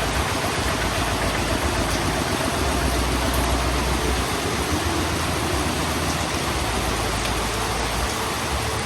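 Heavy rain falling steadily, a dense even hiss, with a low rumble of thunder underneath that swells about three seconds in.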